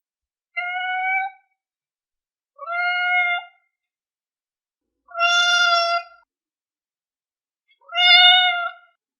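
Domestic cat meowing four times, each meow about a second long and held at a steady pitch, with pauses of about a second between them.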